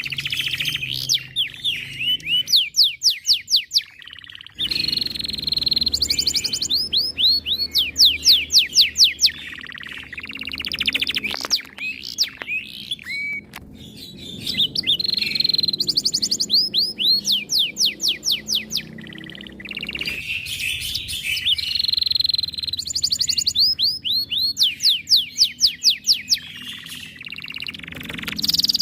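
Domestic canary singing a long song of fast rolling trills: phrases of rapidly repeated, downward-sweeping high notes, each phrase running a second or two before switching to another, with brief pauses about four seconds in and again near twenty seconds.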